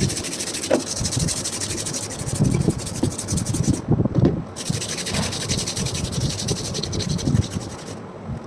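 Sanding: abrasive rubbing steadily against the pliers or their handle, pausing briefly about four seconds in and stopping near the end, over irregular low knocks from the work being handled.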